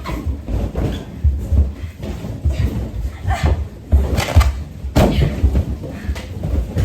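Air-filled rubber balloons being knocked about and pushed together, giving many irregular dull thumps with a few sharper knocks among them.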